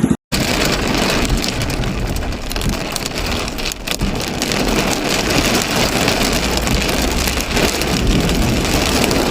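Heavy rain pouring, a loud, steady hiss of water striking surfaces, with a few brief sharper spatters.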